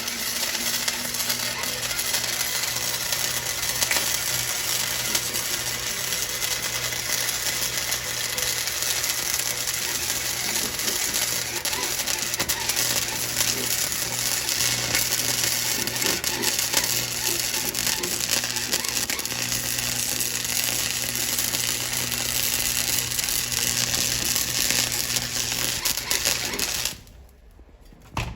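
MIG welder's arc crackling steadily while welding exhaust pipe, with a low electrical hum underneath; it cuts off abruptly about a second before the end.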